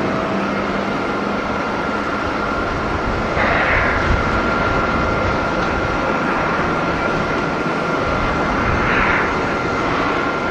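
Jet airliner engines running, a steady dense noise with a thin high whine held through it and two brief swells, one about a third of the way in and one near the end.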